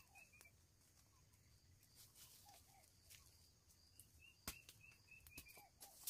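Faint birdsong over quiet outdoor background: two short runs of quick high chirping notes, one at the start and one from about four seconds in, with a few lower slurred calls between them. A single sharp click comes about four and a half seconds in.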